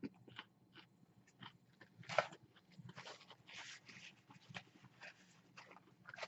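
A person chewing a mouthful of sandwich with crispy chicken tenders: a run of short, irregular crunches and wet mouth noises, the loudest about two seconds in.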